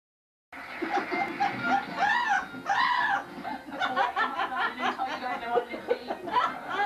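Amazon parrot laughing along with a TV laugh track. Two rising-and-falling hoots come about two seconds in, followed by a long run of quick, choppy "ha-ha" laughter.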